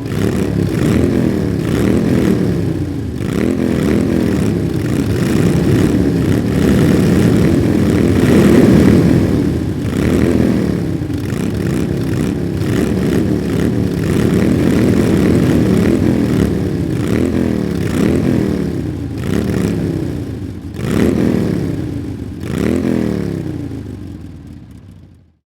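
Motorcycle engines revving over and over, the pitch rising and falling about once a second with several engines overlapping, fading out near the end.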